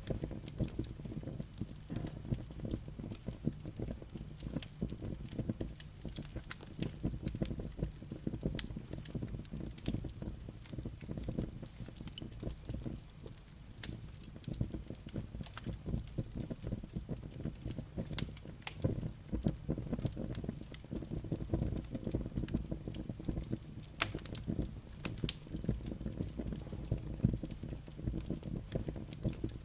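Wood fire burning in a fireplace: a steady low rumble of flames with frequent sharp, irregular crackles and pops from the burning logs and embers.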